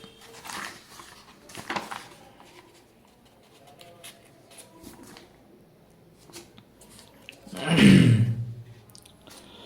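Pages of a paperback book being turned and handled, with soft paper rustles and light clicks. About eight seconds in, a short loud burst of voice.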